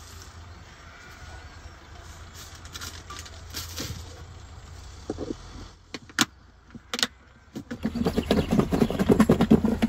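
Food-preparation handling sounds: light clicks and knocks of utensils, two sharp clicks around six and seven seconds in, then from about eight seconds in a fast, even, loud rattling rhythm.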